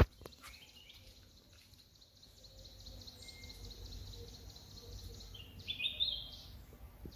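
A sharp click right at the start, then birds chirping: a long, fast, even trill of high chirps, and a few louder chirps about six seconds in.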